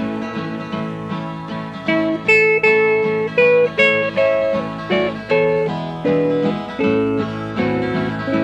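Instrumental break in a country gospel song: a guitar picks a lead melody of separate plucked notes over steady backing chords.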